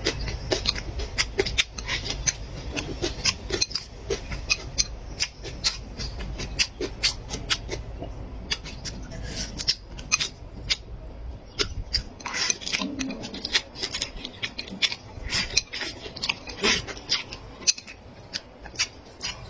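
Close-miked eating: chewing and mouth sounds as a fast, irregular run of sharp clicks and crunches, with a low hum underneath for the first part.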